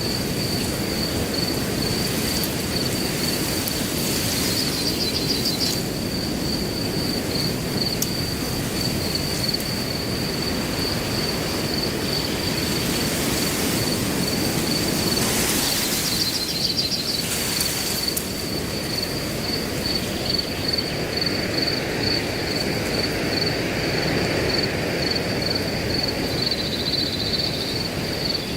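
Wind blowing through grass, swelling in a gust about halfway through, over a steady high-pitched cricket chirping that goes on without a break, with a few short bird chirps.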